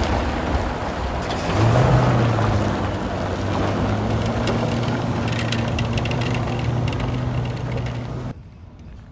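Detroit DD15 diesel engine of a 2017 Freightliner Cascadia semi truck running with a steady low hum, picking up and getting louder about a second and a half in. It cuts off suddenly near the end.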